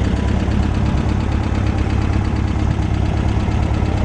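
1965 VW Beetle's air-cooled flat-four engine running steadily while the car cruises on the highway.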